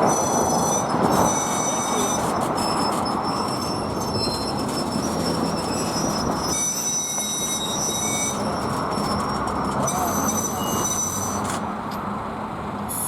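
Train rolling through a grade crossing: steady wheel-on-rail rumble, with thin high-pitched wheel squeal coming and going over it.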